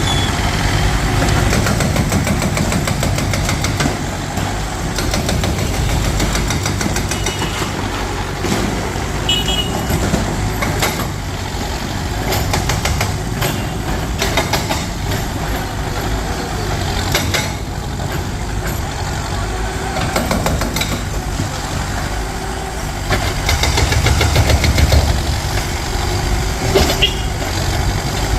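Heavy diesel demolition machinery running steadily, with scattered knocks and clatter of breaking material.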